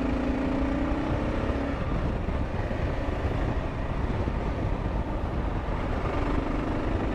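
Motorcycle ride heard through a helmet-mounted camera: steady wind and road rumble, with the Kawasaki KLR 650's single-cylinder engine note plain in the first couple of seconds, fading, and coming back near the end.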